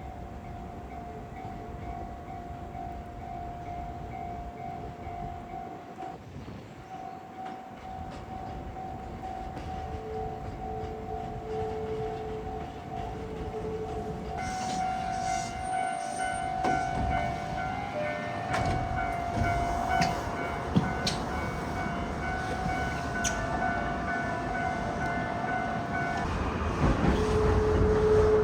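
Electric commuter train on the Tsurumi Line, with a steady whine that grows slowly louder. From about halfway in, clicks and rattles join it, and near the end it is at its loudest.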